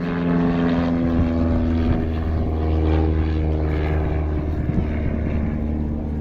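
Pitts S-1E Special aerobatic biplane's 180 hp Lycoming engine and propeller running in flight, a steady engine note that drops to a deeper tone about a second in.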